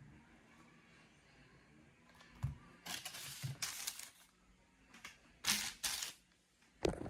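Quiet close-miked handling of a football: a soft knock, then two short spells of rubbing or rustling against its surface, with a small click between them.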